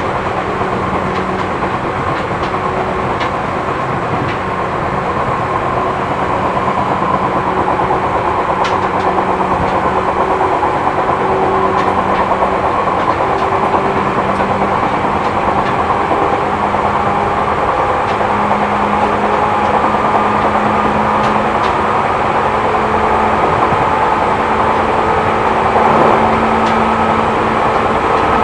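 Running noise inside a Seibu New 2000 series electric train car: a steady rumble of wheels on rail with a motor and gear hum that steps up in pitch in the second half as the train gathers speed, and a few faint clicks.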